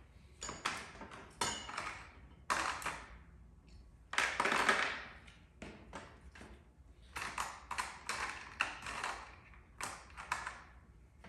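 Sharp taps and knocks on sheet metal with paintless dent repair tools, irregularly spaced, each with a short ring. The loudest is a longer, harsher burst about four seconds in.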